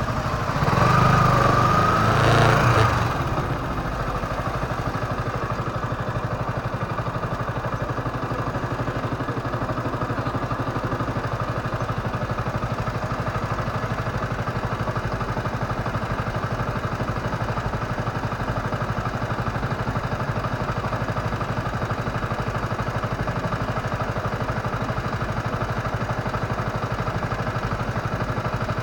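Motorcycle engine idling steadily. Near the start there is a louder stretch of about two and a half seconds that carries a slightly rising whine.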